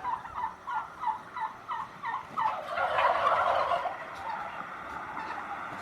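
Turkeys calling: a run of short falling yelps, about three a second, then a louder, denser gobble about three seconds in.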